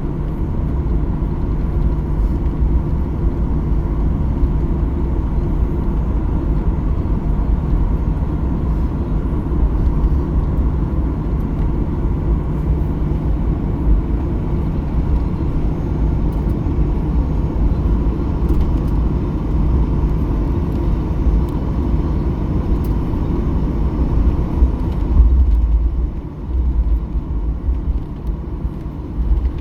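Boeing 737-800 cabin noise: a steady, loud engine and airflow rumble with a faint steady hum. About 25 seconds in there is a brief louder surge, after which the rumble becomes quieter and duller.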